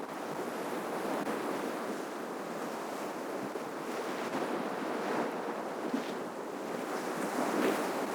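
Ocean surf washing on the shore: a steady rush of breaking waves, swelling a little about five seconds in and again near the end.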